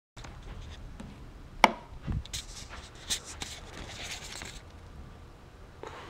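A sharp click, then a low thump and a run of small clicks and rustling, like something being handled.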